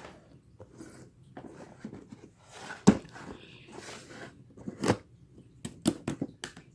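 Irregular crunching and rustling handling noises with a few sharp clicks or knocks, the loudest about three seconds in and again about five seconds in, then a quick run of clicks near the end.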